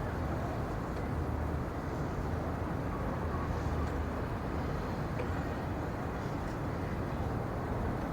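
Steady low rumbling ambient noise with no change in level, with a few faint ticks.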